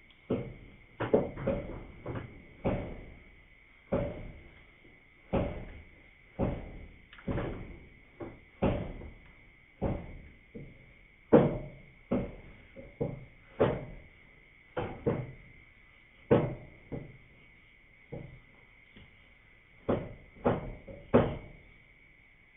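Frogs calling at night: short low knock-like calls, roughly one a second and unevenly spaced, over a steady high insect trill.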